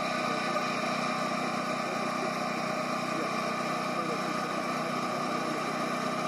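Steady idling engine or machine hum with several constant tones, unchanging throughout.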